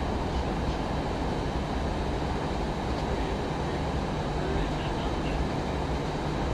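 Steady cabin noise inside an Airbus A319 airliner on the approach to landing: an even rush of airflow and engine noise, heaviest in the low end, with a faint high steady tone above it.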